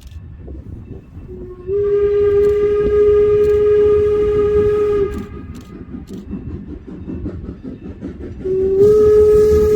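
Steam whistle of Norfolk & Western 4-8-0 No. 475 blowing a long blast of about three and a half seconds, then a second long blast starting near the end, each sliding up slightly in pitch as it opens. Underneath is the low rumble of the moving steam train.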